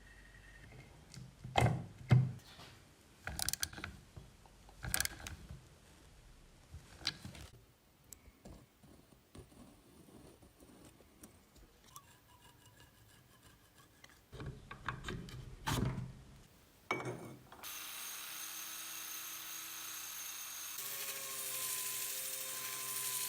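Metal tools knocking and clicking on motorcycle parts during restoration work: a string of separate sharp strikes with pauses between them. About three quarters of the way through, a steady machine whirr with a thin whine takes over, as from a small power tool at work.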